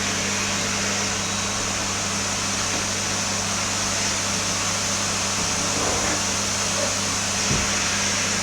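Vacuum cleaner running steadily: a constant low hum under an even rushing noise, with a light knock near the end.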